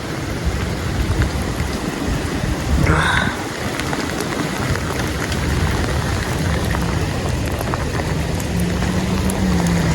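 Storm rain and wind: a steady, loud rush of wind-driven rain with no letup. A brief higher-pitched sound comes about three seconds in.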